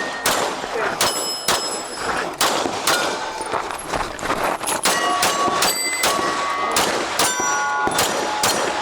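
A string of pistol shots fired at steel targets, about two or three a second, many hits followed by the steel plates ringing with a clear high tone.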